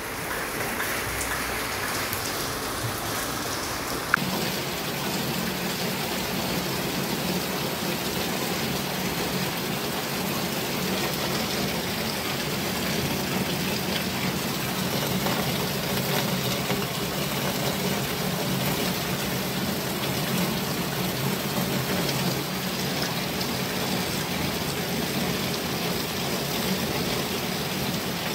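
Heavy rain shower falling steadily and pattering on roofs and walls. A single sharp click about four seconds in.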